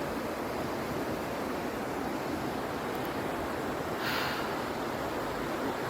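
Steady rush of falling water from a waterfall, an even noise with no break. About four seconds in, a short breath-like rush rises briefly above it.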